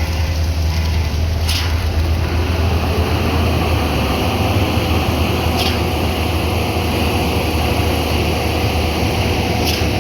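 Heavy construction machinery engines running with a steady low rumble, with a short sharp tick about every four seconds.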